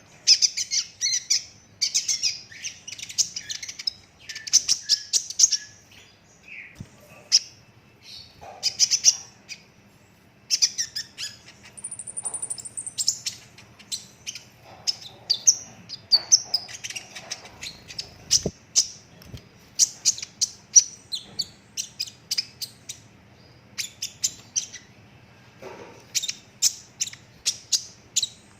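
A young sunbird (kolibri ninja) singing nonstop in fast, high, rapid-fire rolls of chirps and trills, broken by brief pauses, with one thin high whistle about twelve seconds in.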